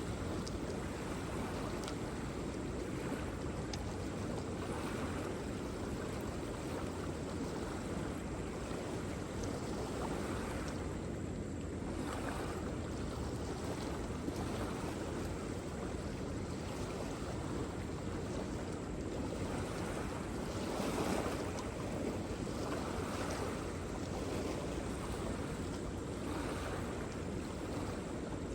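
Waterfall: a steady, deep rush of falling water with small swells in level.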